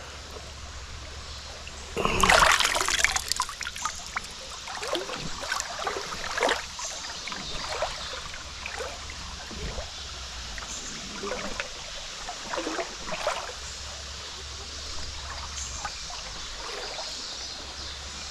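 Creek water trickling after a flood, with irregular rustling and crunching of footsteps through brush and flood debris. A louder burst of rustling about two seconds in.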